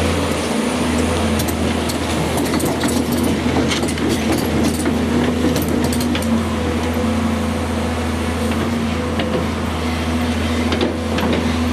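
Volvo EC210 excavator's diesel engine running steadily, with scattered sharp clicks and rattles from about a second and a half to seven seconds in.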